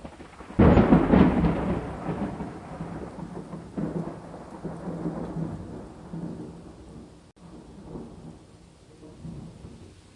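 A sudden thunderclap about half a second in, then rolling thunder that dies away over several seconds, with further rumbles midway and near the end, over steady rain.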